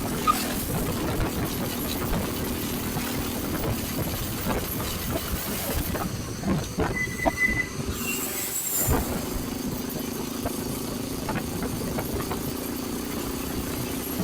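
Motorcycle running at road speed, its engine hum mixed with wind and road noise, with scattered knocks and a brief high-pitched tone about halfway through.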